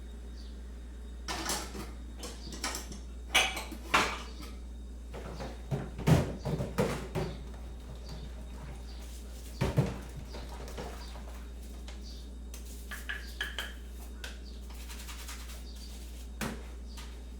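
Crockery and cutlery clinking and knocking as things are handled in a kitchen, in irregular clusters with the loudest knocks a few seconds in and near the middle. A steady low hum runs underneath.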